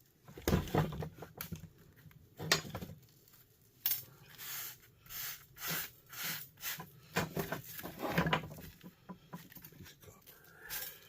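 Small metal parts and hand tools clinking and clattering against each other in irregular knocks while a small electric motor from a heater is taken apart for scrap.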